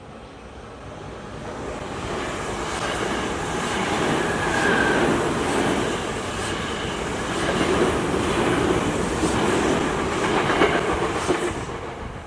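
Tokyu Toyoko Line electric commuter train passing over a level crossing, its wheels clacking over the rail joints. The sound builds over the first couple of seconds, holds, and dies away near the end.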